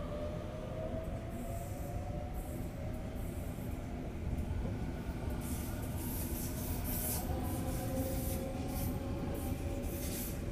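Sydney Trains Waratah electric train running in towards the platform: a steady rumble of wheels on rail under a faint, slowly rising motor whine, with bursts of hiss from about five seconds in.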